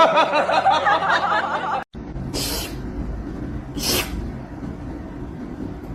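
A person laughing, cut off abruptly about two seconds in. Then a low rumbling background with two short hissing noises.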